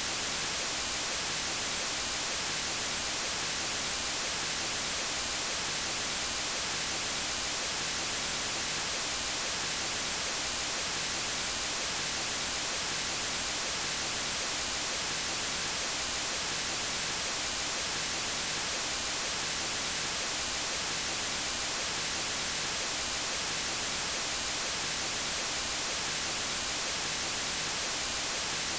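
Steady, unchanging white noise: an even hiss across the whole range, brightest in the highs, with no breaks or events.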